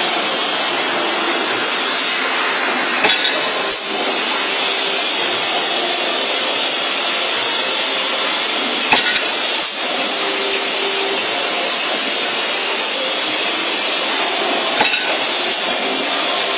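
CNC 3D wire bending machine running with a steady whir, with a sharp clack three times, about six seconds apart.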